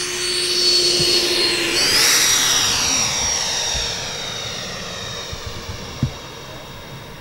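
Twin 70 mm electric ducted fans of a radio-controlled Boeing 737 MAX model whining as it flies a low pass: the high whine and rushing air swell to their loudest about two seconds in, the whine stepping up in pitch, then fade as the model moves away. A short click near the end.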